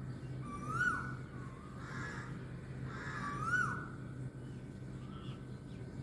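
A bird calling repeatedly: short whistled notes that rise and then drop off sharply, three or four of them a second or so apart. A steady low hum runs underneath.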